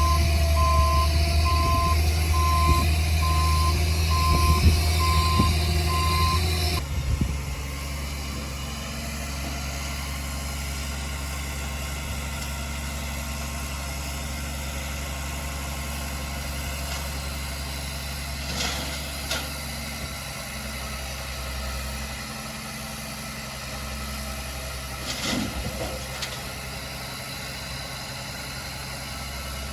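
A backup alarm beeps in a steady on-off rhythm over a heavy diesel engine running loudly. About seven seconds in, the beeping and the louder engine stop abruptly, leaving a heavy diesel engine running steadily at a lower level, with a few brief knocks later.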